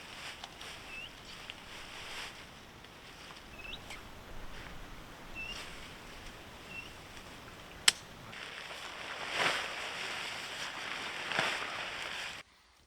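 Quiet outdoor ambience with a small bird giving a short chirp every second or two. About eight seconds in comes one sharp click, followed by brief rustling, as tent poles and fabric are handled.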